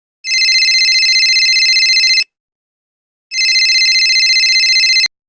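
Telephone ringing twice with a fast trilling bell tone, each ring about two seconds long with a second's pause between; the second ring cuts off suddenly.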